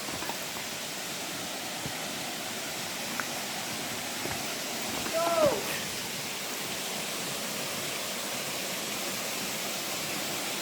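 Steady rushing of a woodland waterfall, with one short call falling in pitch about five seconds in.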